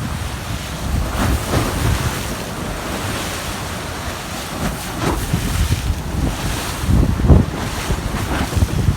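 Strong gusting wind blowing across the microphone in uneven low rumbling buffets, with sea waves washing underneath. The loudest gust comes about seven seconds in.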